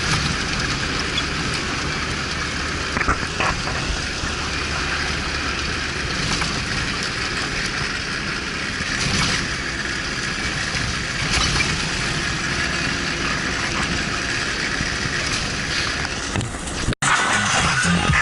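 Off-road vehicle driving with its engine running under a steady, noisy rush. The sound cuts out abruptly near the end.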